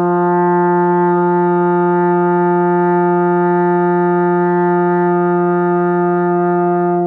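Trombone holding one long, steady middle F, the fourth-line F of the bass clef. It is a long-tone warm-up note played for pitch matching.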